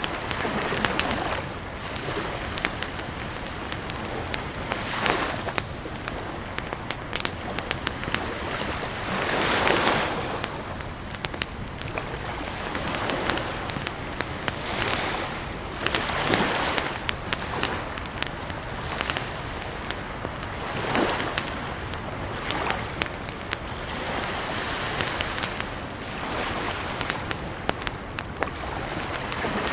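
Campfire crackling, with frequent sharp pops and snaps over a steady hiss, and several soft whooshing swells that rise and fall.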